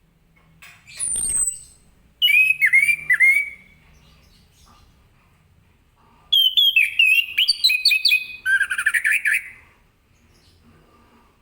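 Orange-headed thrush (anis kembang) singing in two bursts of quick, varied whistled notes. The first is short, about two seconds in, and the second lasts about three seconds from the middle. A brief high falling note comes about a second in.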